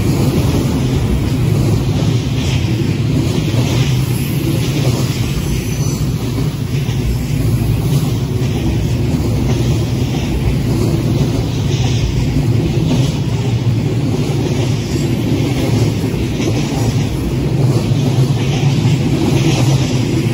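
Freight cars of a passing manifest train rolling by at close range: a loud, steady rumble of steel wheels on the rails, with repeated clacks from the wheels and running gear.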